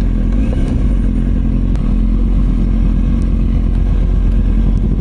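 Motorcycle engine running at a steady speed, with a deep, even note.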